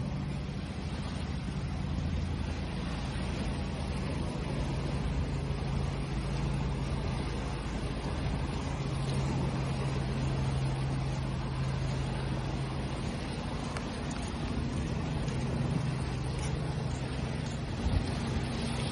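Steady wash of ocean waves with a low, steady hum underneath.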